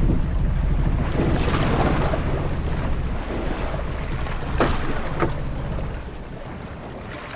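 Ship-at-sea ambience: waves washing and wind, with a steady low rumble that slowly grows quieter. There are two short, sharp knocks about two-thirds of the way through.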